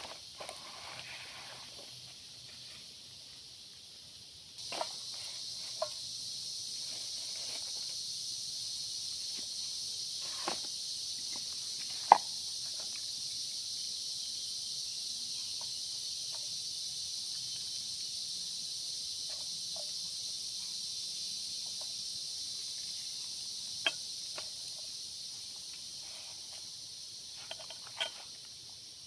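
Steady, high-pitched insect drone of tropical forest insects, switching on abruptly about four and a half seconds in and easing off near the end. Scattered sharp clicks or knocks sound over it, the loudest about twelve seconds in.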